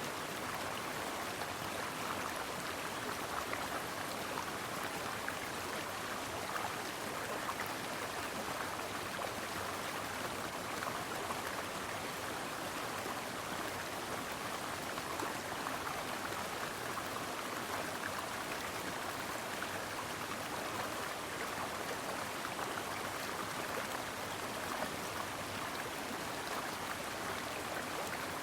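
A shallow stream running steadily over rocks: a continuous, even babble of flowing water.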